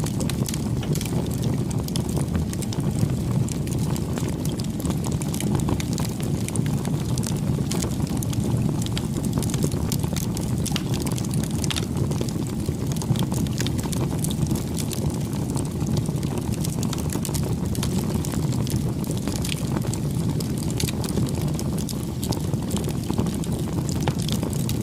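Bonfire burning: a steady low rush of flames with many small, sharp crackles scattered throughout.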